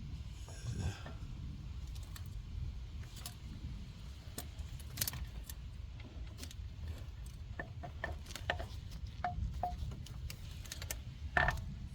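Scattered light metallic clicks and clinks of hand tools and engine parts being handled during an engine teardown, a couple ringing briefly, the loudest clink near the end, over a steady low hum.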